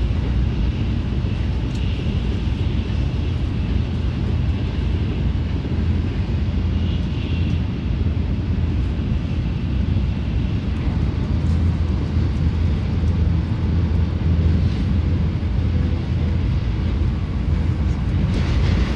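Steady low rumble of a Nozomi Shinkansen bullet train running at about 270 km/h, heard from inside the passenger car.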